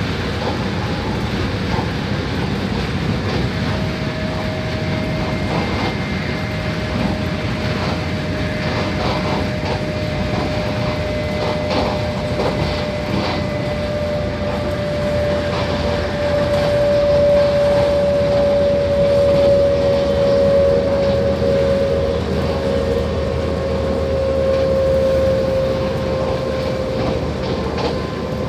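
Running noise heard from inside a passenger train carriage at speed: a steady rumble of wheels on the track with faint ticks, and a thin whine that slowly drops in pitch and swells louder past the middle.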